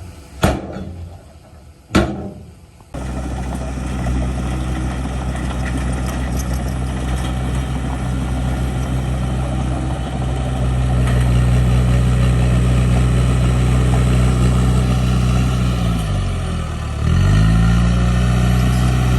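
Heavy diesel engine of earthmoving machinery running steadily. Its pitch sags and then climbs back up near the end. Two sharp knocks come in the first couple of seconds, before the engine sound cuts in abruptly.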